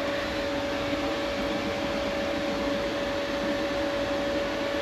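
Steady mechanical hum: an even whirring noise with one constant mid-pitched tone running through it, unchanging throughout.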